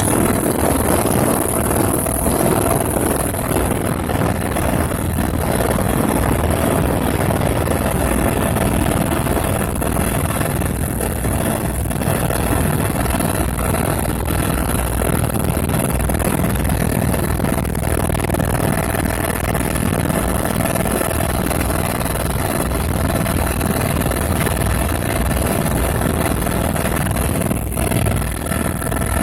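Helicopter running steadily in flight: a loud, even engine and rotor noise with a steady high whine.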